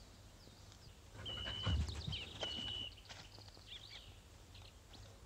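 Birds singing: quick chirps and two held high whistled notes about a second apart, with a dull low thump among them.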